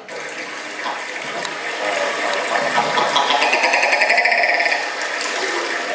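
Human voices imitating the call of the willow ptarmigan: a fast rattling call that grows higher and stronger about three seconds in and eases off near the end.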